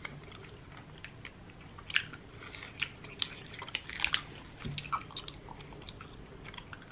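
A person chewing a hard, sticky strawberry candy at close range: irregular wet mouth clicks and smacks.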